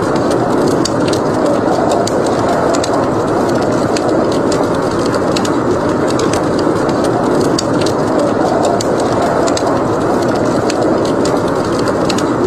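Steady blizzard wind with a wood fire crackling over it in scattered sharp snaps and pops.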